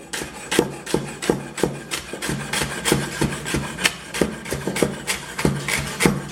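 Kitchen knife cutting celery on a cutting board: a steady run of crisp strokes, about three a second.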